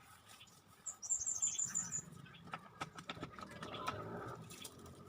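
A small bird calling a quick run of about seven high chirps about a second in, followed by scattered light clicks and taps.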